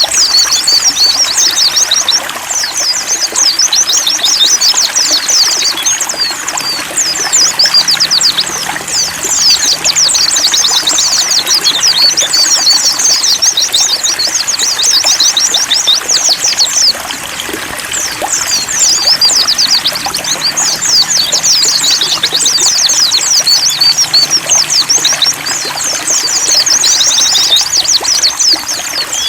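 White-eyes (pleci) singing in a continuous stream of fast, high twittering chirps over the steady trickle of running water.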